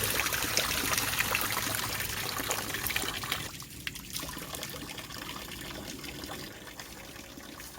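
Water pouring and trickling, loudest for about the first three and a half seconds, then dropping to a quieter, steady trickle.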